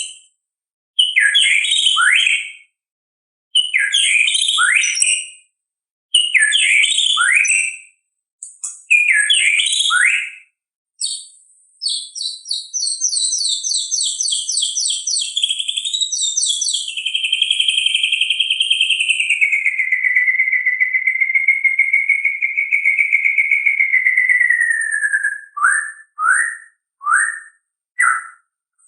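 White-rumped shama (murai batu) singing. It gives short fluty phrases about every two and a half seconds, then a fast run of high repeated notes. This leads into a long wavering whistle that slowly falls in pitch, and a few short downward notes near the end.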